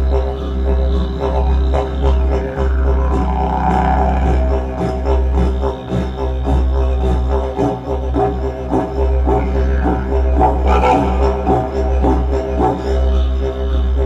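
Didgeridoo playing a continuous low drone, with overtones sweeping up and down and a quick rhythmic pulsing in the breath.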